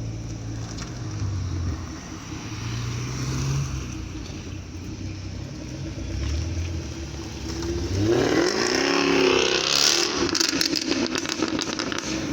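Jaguar F-Type's engine running low, then revving hard about eight seconds in, its pitch rising and falling, with a quick series of sharp cracks near the end as it goes by.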